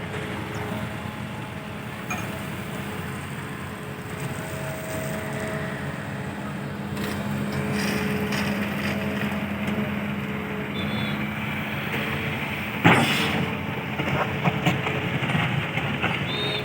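Heavy diesel machinery, a dump truck and an excavator, running steadily. The engine note swells a little midway. About thirteen seconds in there is a loud metallic bang, followed by a few lighter knocks.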